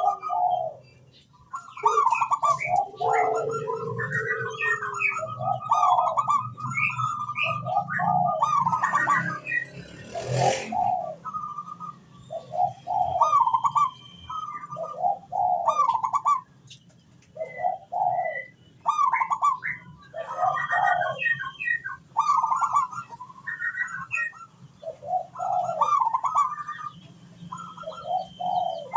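Zebra dove (perkutut) cooing: repeated phrases of short, quick coo notes, phrase after phrase with brief gaps, while small birds chirp faintly in the background.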